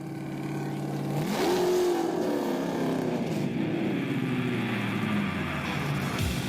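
Car engine running, then revving: its pitch climbs sharply about a second in and slowly falls away over the following seconds.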